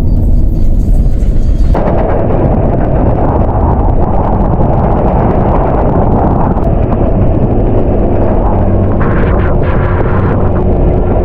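A vehicle driving: a loud, steady low rumble that grows fuller about two seconds in.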